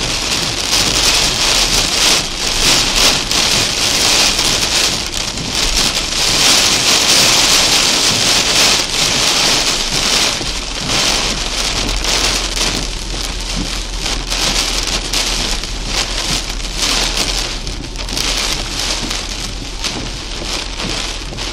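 Heavy thunderstorm rain drumming on a car's roof and windscreen, heard from inside the cabin. A dense hiss of countless drops is heaviest about six to eight seconds in and eases a little near the end, over a steady low hum.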